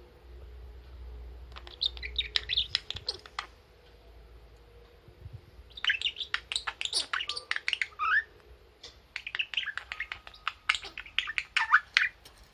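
Budgerigar chirping and chattering in three bouts of quick, varied chirps: one starting about a second and a half in, one around the middle, and one running to near the end.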